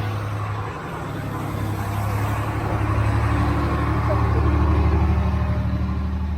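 Diesel truck engine running close by, a steady deep drone that grows louder from about three seconds in.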